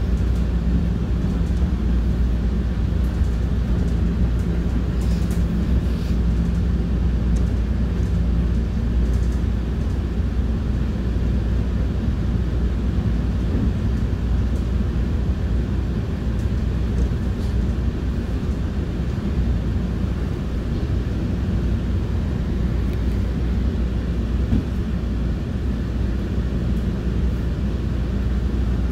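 Electric commuter train (an MR-90 multiple unit) running steadily, heard as a continuous low rumble with a hum that fades out about a quarter of the way through.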